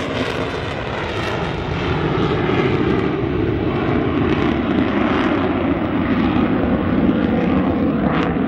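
EA-18G Growler's twin General Electric F414 turbofans at high power after a wave-off from a simulated carrier landing approach: steady jet roar that grows louder about two seconds in.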